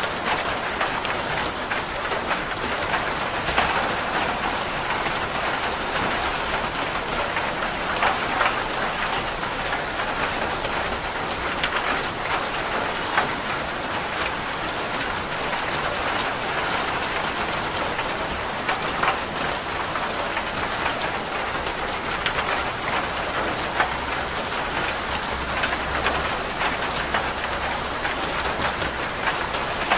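Rain falling on a roof: a steady, dense patter with scattered louder drops, and a low rumble of thunder building near the end.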